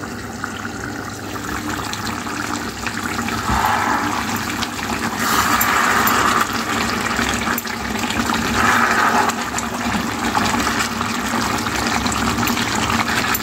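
Chicken in a thick masala sizzling and bubbling in a nonstick frying pan as it is stirred with a wooden spatula, with three louder stretches in the middle.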